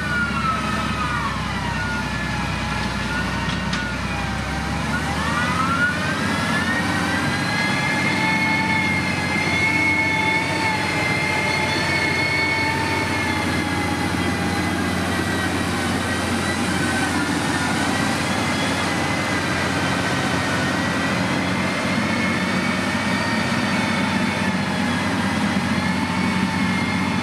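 Heavy motor grader's diesel engine working under load, with a high whine that drops in pitch over the first few seconds, climbs back up around six seconds in, then holds steady over a low engine rumble.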